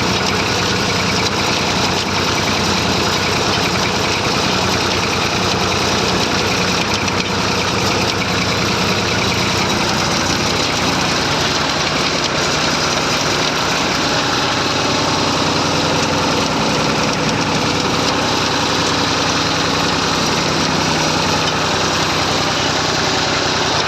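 Massey Ferguson 35 tractor engine running steadily, its note shifting slightly about halfway through.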